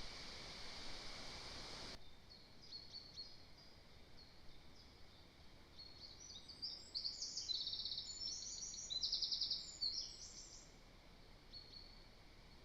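A steady hiss stops abruptly about two seconds in. A small songbird then sings a series of high, fast trilled phrases, loudest in the middle, which fade out near the end.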